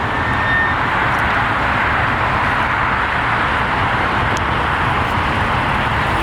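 2019 Dodge Charger GT driving, a steady engine and road noise with a low rumble.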